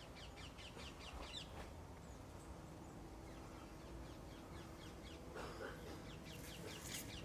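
Small garden birds twittering: two quick runs of short, high, falling chirps, one at the start and one near the end, with a faint low rumble underneath.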